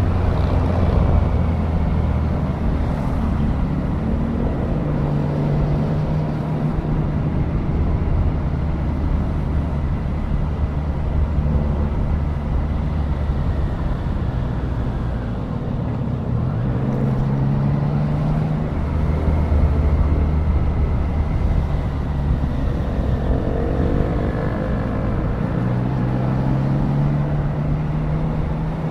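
2024 Triumph Daytona 660's inline three-cylinder engine running under way. Its pitch rises and drops back several times as the rider works the throttle and gears, with wind and road noise underneath.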